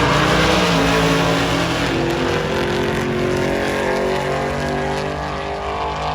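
Race truck's engine running hard, its level easing down as it goes on.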